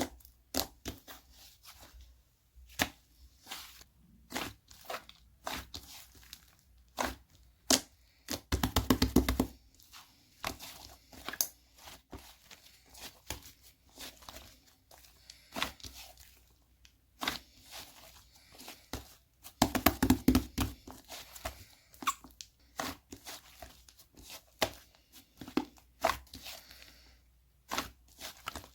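Slime being squeezed and folded by hand, giving many sharp pops and clicks of trapped air. Twice, about nine and twenty seconds in, it breaks into a longer run of dense crackling.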